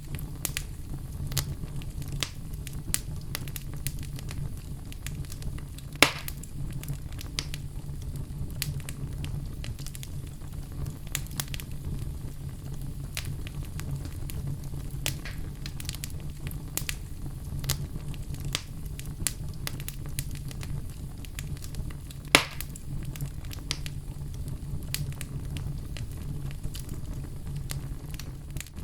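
Oak logs burning in a fireplace: a steady low rumble of flame with frequent small crackles and two louder pops, about six seconds in and near the three-quarter mark.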